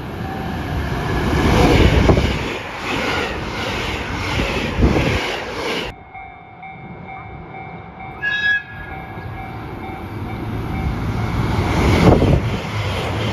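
An electric rapid train running through the station at speed, its wheels clattering over rail joints in a steady rhythm. Then, after a sudden break, a short horn blast and a diesel limited express approaching and passing close by, with a low engine hum near the end.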